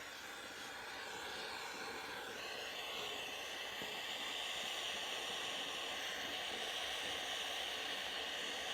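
Handheld gas torch burning with a steady hiss, turning brighter about two seconds in, as it heats the nuts that hold a wire wheel's centerpiece to loosen them.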